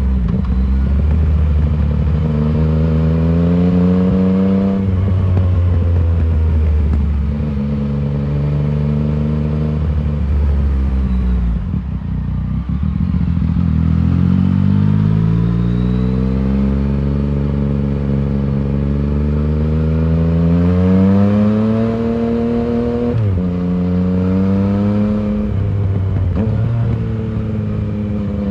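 Yamaha MT-09's three-cylinder engine through an Arrow full exhaust system, pulling hard on the road. The engine pitch climbs and falls away at each upshift. The rider eases off about twelve seconds in, then accelerates again through several more gear changes.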